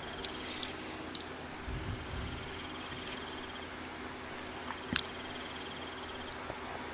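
Someone eating fast food and chewing softly, with a few faint clicks and a sharper click about five seconds in, over a steady hiss.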